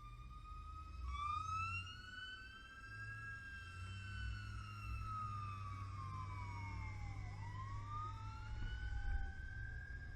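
Two emergency-vehicle sirens wailing at once, each slowly rising and falling in pitch, out of step with each other, over a low engine rumble.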